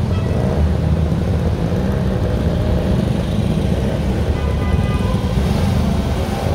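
Engines of several vintage cars idling and moving at walking pace in a queue, a steady low rumble.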